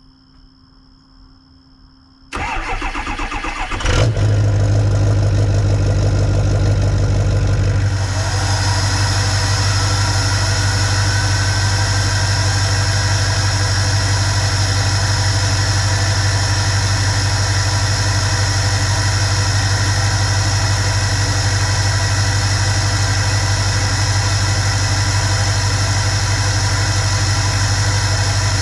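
Ford 6.0 Powerstroke V8 turbo-diesel cranking for about two seconds, catching about four seconds in and running on at a steady idle. The idle settles a little about eight seconds in, and a faint whine rises slowly in pitch over the following seconds.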